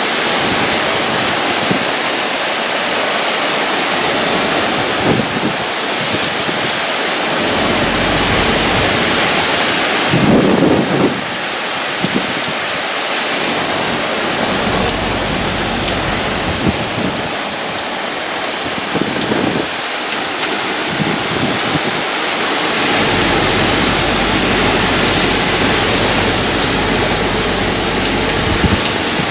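Heavy rain falling hard and steadily in tropical-storm conditions, a dense hiss with low rumbling that comes and goes.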